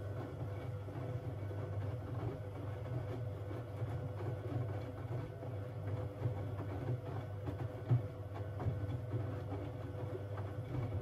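Siemens Siwamat 6143 front-loading washing machine running a boil wash: a steady low motor hum with a faint higher tone and light irregular knocks, one sharper knock about eight seconds in.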